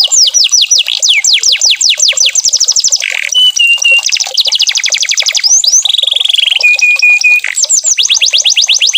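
Canary singing a continuous song: fast runs of falling whistled notes, several to about ten a second. These are broken near the middle by a few short held steady notes and a brief buzzy rattle about six seconds in.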